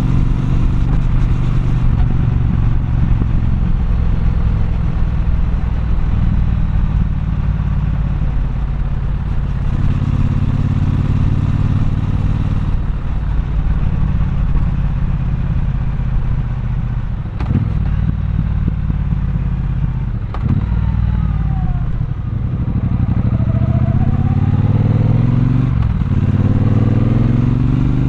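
Triumph Bonneville Bobber's 1200 cc parallel-twin engine running under way, its exhaust note rising and falling with the throttle, with several rising revs in the last third. A few brief sharp clicks cut through the engine note.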